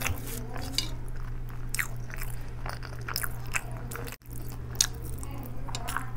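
Close-miked eating sounds: wet chewing clicks and lip smacks from a mouthful of rice and curry, with fingers squishing rice on a steel plate. A steady low hum runs underneath, and the sound drops out briefly about four seconds in.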